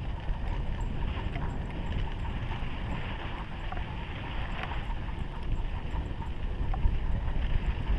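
Steady rumbling, crunching noise of moving fast along a dirt trail behind a pulling dog, with wind on the microphone and a few faint clicks.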